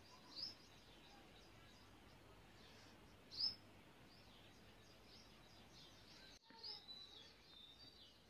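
Near silence with faint, scattered bird chirps, the clearest about three and a half seconds in.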